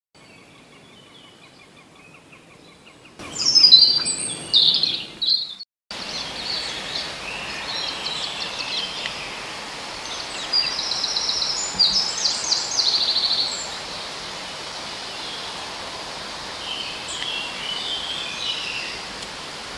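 Small birds singing and calling over a steady background hiss, with fast trilling phrases in the middle. The sound cuts out briefly about six seconds in.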